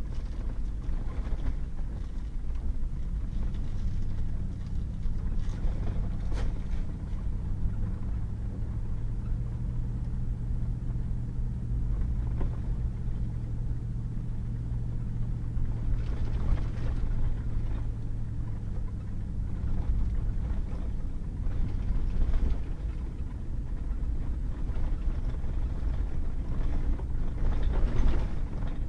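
Pickup truck driving on a wet, muddy dirt road: steady engine and tyre rumble, with scattered brief knocks and clicks.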